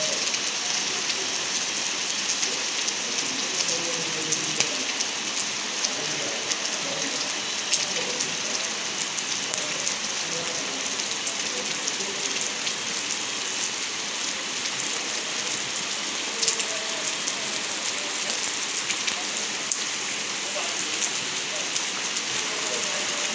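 Rain falling steadily, an even hiss with many sharp ticks of individual drops striking a surface.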